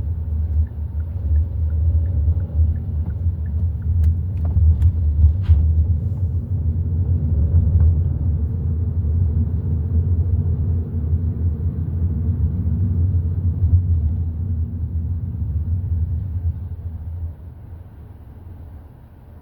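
Hyundai i30 N Line driving, a steady deep rumble of road and engine noise with a few sharp clicks about four to five seconds in. The rumble drops away sharply about seventeen seconds in.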